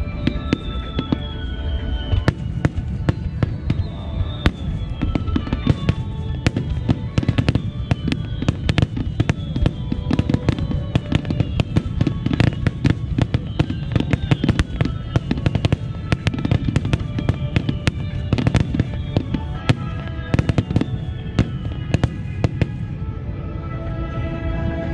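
Starmine fireworks barrage: a dense, rapid string of shell bursts and crackles, with music playing underneath.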